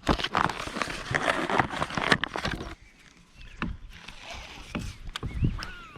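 Splashing and rustling in and around a kayak for about three seconds, then a few scattered knocks on the hull. A bird chirps faintly near the end.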